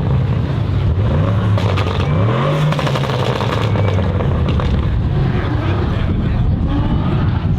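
Audi RS6 C8's twin-turbo V8 through a Capristo exhaust with Milltek downpipes and no particulate filter, the engine note climbing twice, about one and two seconds in, then holding steady before easing lower.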